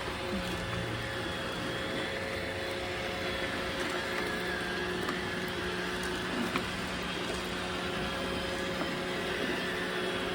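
iRobot Roomba robot vacuum running, a steady hum of its motors with a few constant-pitch tones over a noisy whirr.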